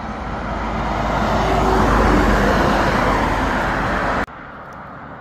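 Fast road traffic on a main road: a vehicle passes close, its noise swelling and fading, over a deep rumble. The sound cuts off abruptly about four seconds in.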